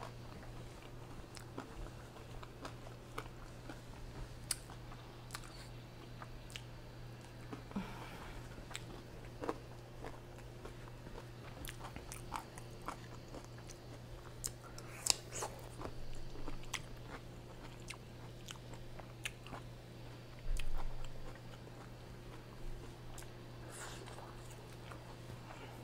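A person biting and chewing french fries close to the microphone, with scattered small mouth clicks and smacks. A steady low hum runs underneath.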